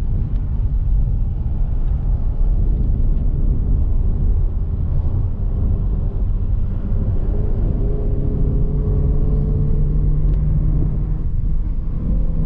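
Car driving at speed, a steady low rumble of road and wind noise, with a steady engine note coming through from about eight seconds in.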